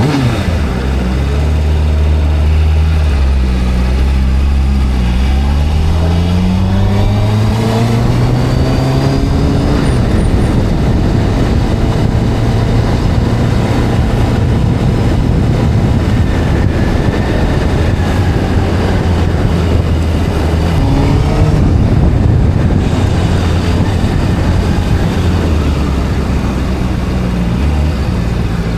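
Honda CBR600RR inline-four motorcycle engine pulling away and accelerating, revs climbing through several gear changes, then holding at speed under a rush of noise. Near the end it slows back to low revs and starts to pick up again.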